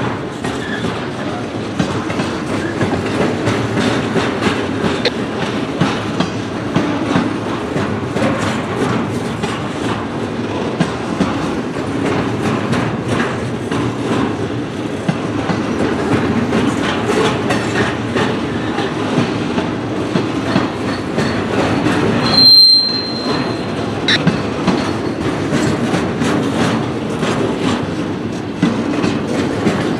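Freight cars rolling past on the rails, a steady rumble with the quick clicking of wheels over rail joints. A short high-pitched wheel squeal rings out about two-thirds of the way through.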